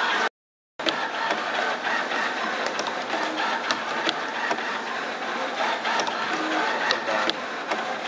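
Simco CNC-620R CNC spring forming machine running: servo motors whine and the tooling clicks as wire is fed and bent, in a cycle that repeats about every three seconds. The sound cuts out completely for about half a second near the start.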